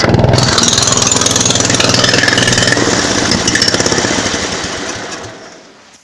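Small engine of a homemade tractor running loudly with a fast, even chugging, then slowing and fading out over the last second or so as it stalls.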